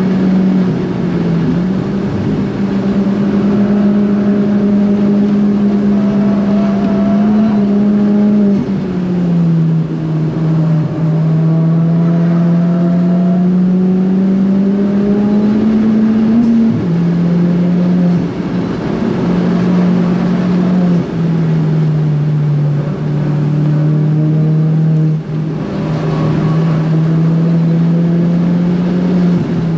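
Turbocharged Ford Fiesta ST engine pulling hard at high revs. Its pitch climbs slowly in each gear and steps down at several gear changes, about nine and seventeen seconds in and again later.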